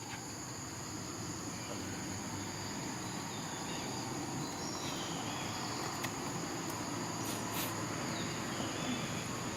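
Steady insect chorus, a constant high-pitched drone, over a low background hum of outdoor noise.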